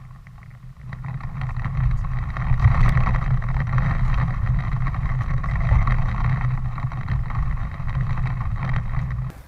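A motor vehicle's engine running steadily with a low rumble, growing louder about a second in and cutting off suddenly near the end.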